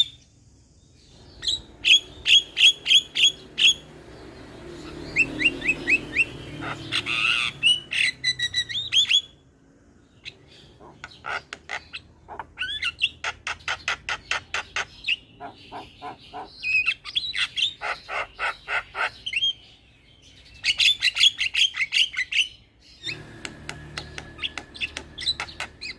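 Javan mynas (jalak kebo) calling: bouts of quickly repeated harsh squawks and chirping notes, several a second, broken by short pauses.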